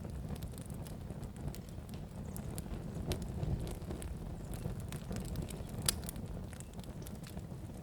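Wood fire crackling in a fireplace: a steady low rumble of flames with scattered sharp pops and snaps, the loudest pop about six seconds in.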